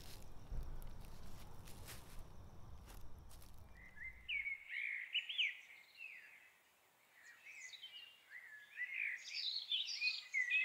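Birds singing, quick chirps and warbled phrases, starting about four seconds in, with a short pause in the middle. Before the birds, a low rumble with a few faint clicks.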